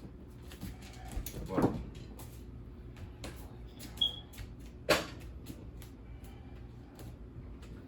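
Scattered clicks and knocks of things being handled in a kitchen, with a dull thump a little over a second in, a short high squeak about four seconds in, and the loudest knock just after it.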